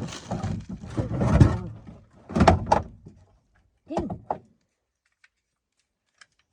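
A car door clunking and thudding as it is worked, with two sharp knocks about two and a half seconds in.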